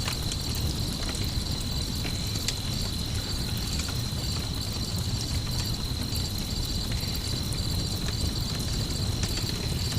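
Crickets trilling steadily at night, layered with a campfire crackling in sparse little pops, over a low steady rumble.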